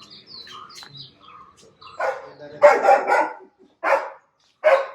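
Guard dog barking at a visitor: a quick run of loud barks starting about two seconds in, then two single barks near the end. Small birds chirp faintly before the barking starts.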